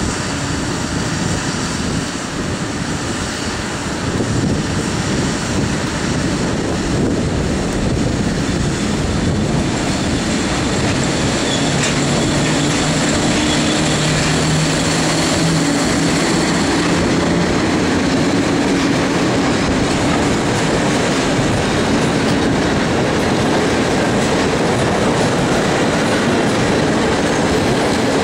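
A PKP EU07 electric locomotive pulls a passenger train out and past at low speed, with a low hum as the locomotive goes by about halfway through. The coaches follow, their wheels clicking over rail joints.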